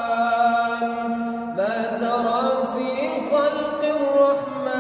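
Quran recitation in a melodic, drawn-out chant: a single voice holds long notes with wavering ornamented turns, and a new phrase starts about one and a half seconds in.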